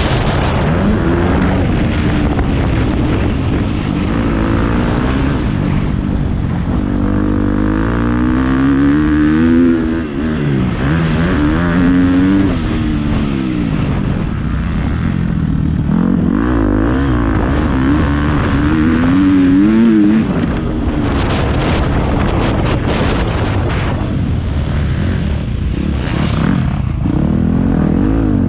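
Motocross bike engine being ridden hard, its pitch climbing and falling every couple of seconds as the throttle is opened and shut.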